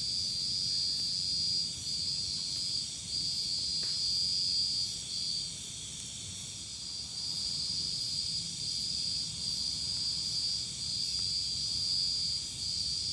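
Night insects trilling in a loud, continuous high-pitched chorus that breaks every second or so with brief dips, over a faint low rumble.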